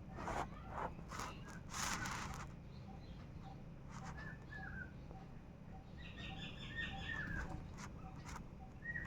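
Bird calls: short, downward-slurred notes, a couple around the middle and a quick run of them in the second half, over a steady low hum. Two brief noisy bursts come near the start.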